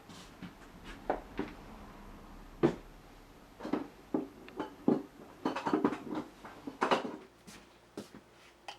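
Irregular knocks, taps and clatter of tools and objects being picked up and set down at a workbench, the sharpest knock about two and a half seconds in and a busy run of clatter around six to seven seconds in.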